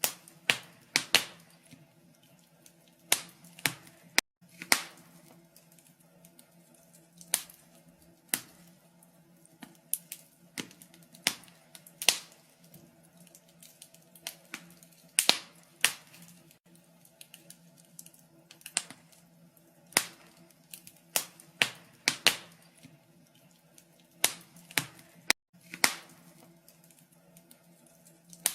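Wood fire crackling in a fireplace: sharp, irregular pops and snaps of burning logs, unevenly spaced and often in quick pairs, over a faint steady low hum.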